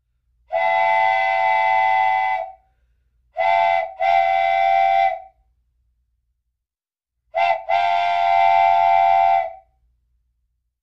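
Train whistle blowing in five steady blasts: one long blast, then a short and a longer one, then a short and a long one.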